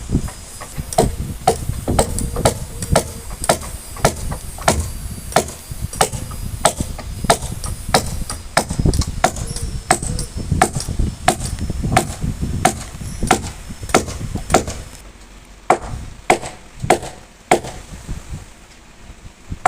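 Repeated hammer blows on wood in a steady rhythm of about two strikes a second, as planks are fastened to a wooden boat hull. A low rumble underneath stops about 15 seconds in.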